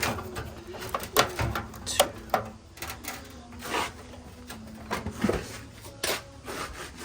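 Scattered knocks, clicks and scrapes of dryer sheet-metal panels and parts being handled during disassembly.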